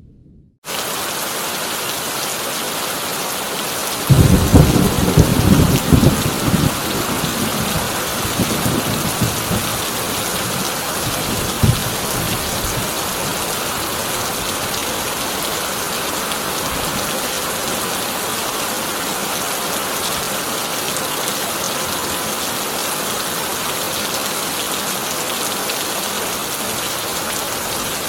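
Heavy rain drumming steadily on a tin roof. About four seconds in, thunder rolls in with a loud low rumble that dies away over several seconds. A short, sharper thunder crack follows just before twelve seconds. The audio is cut out for the first half-second.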